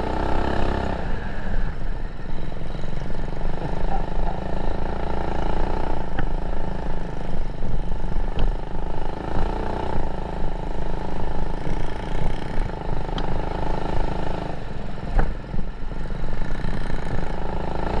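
Mini bike's small single-cylinder four-stroke engine running hard during a drag run, a steady engine note that changes about three-quarters of the way through.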